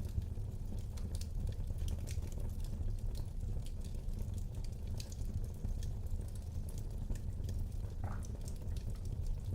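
Wood fire burning in a fireplace: irregular sharp crackles and pops over a steady low rumble, with a brief rising whistle about eight seconds in.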